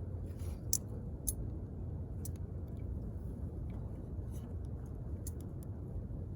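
Wood campfire burning: a steady low rumble of the flames with scattered sharp crackles and pops, the two loudest about a second in.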